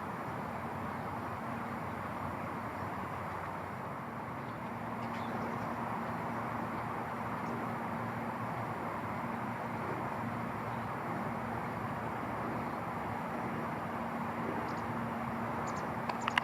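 Steady outdoor background noise with a faint steady low hum, and a few faint clicks near the end.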